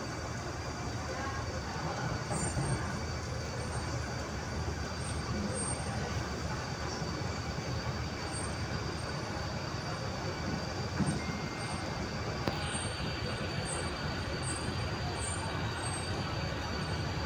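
East Rail Line R-train, a Hyundai Rotem electric multiple unit, running along the line: a steady rumble of wheels and running gear, with a thin high steady tone over it.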